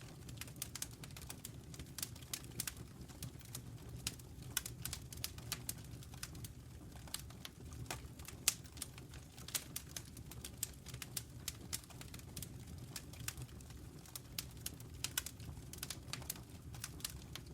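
Wood fire burning in a fireplace, crackling with rapid, irregular pops and snaps over a low, steady sound of the flames.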